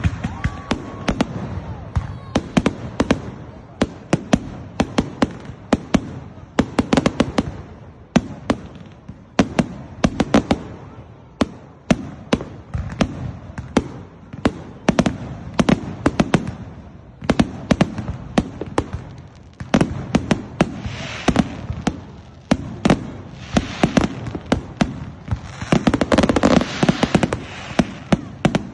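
Fireworks going off in a continuous barrage: rapid sharp bangs and crackles, several a second, over a low rumble, with a denser burst of crackling near the end.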